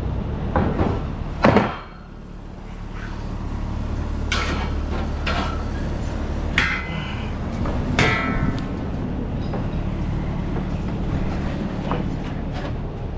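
An engine idling steadily, with knocks and metallic clanks every second or two.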